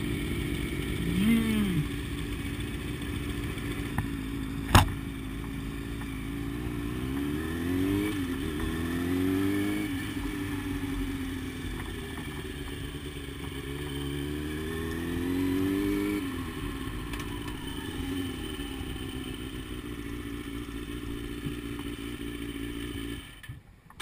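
Motorcycle engine idling, revved up and back down twice, with one sharp knock about five seconds in.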